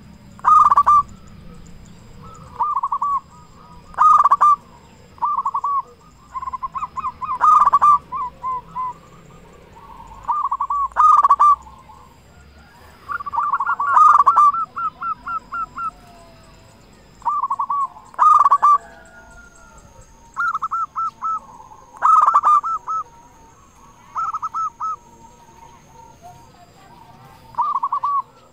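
Zebra dove (perkutut) in full song, cooing over and over in stuttering phrases of quick coos, with a louder burst every three to four seconds.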